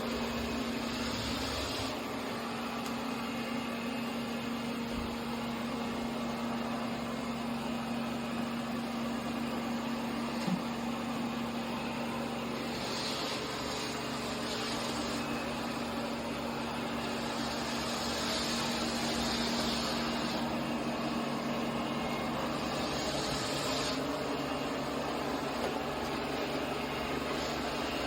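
Robot vacuum cleaner running: a steady motor and fan whir with a constant low hum, and a few brief stretches where a higher hiss rises and falls.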